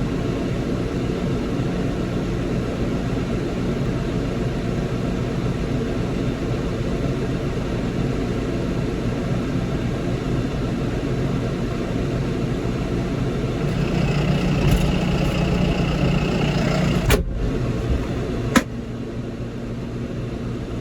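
Tractor diesel engine running steadily at idle. About fourteen seconds in, a higher whine joins and the level rises a little. Two sharp clicks follow a second or so apart, and then the sound drops lower.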